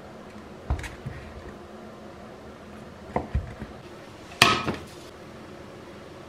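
Kitchenware being handled: a few scattered knocks and clinks, the loudest and brightest one about four and a half seconds in.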